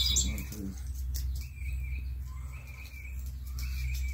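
Birds chirping, with short high chirps at the start and a wavering, trilling call from about halfway through, over a steady low hum.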